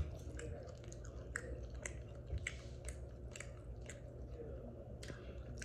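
A person chewing a mouthful of loaded baked potato with shrimp, chicken and sausage in alfredo sauce, with irregular small mouth clicks.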